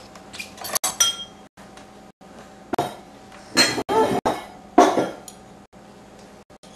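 Silverware and dishes clinking and knocking as they are taken out of a dishwasher: a few separate clinks with short ringing, the loudest about three to five seconds in.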